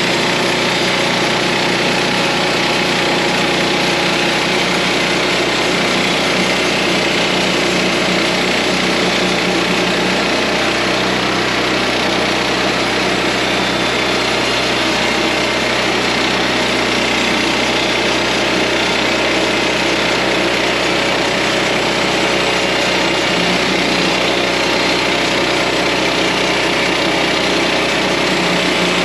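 Small engine of a portable sawmill running steadily at constant speed.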